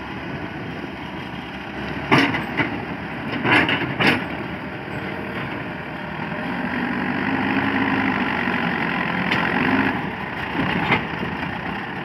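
Diesel engine of a JCB 4CX backhoe loader running steadily. Its sound swells for a few seconds in the second half. Sharp metallic knocks come three times in the first half and once near the end.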